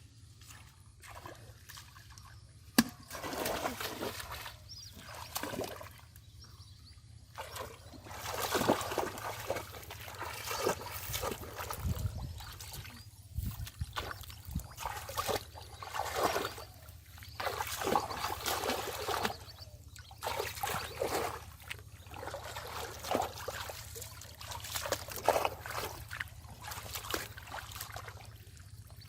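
Shallow pond water splashing and sloshing in irregular bursts as hands grope through it for fish, with a sharp click about three seconds in.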